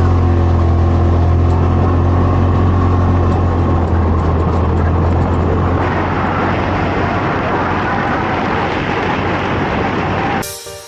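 Side-by-side UTV engine running as it drives, a loud, steady low drone. About six seconds in the sound becomes noisier and hissier. It cuts off suddenly near the end.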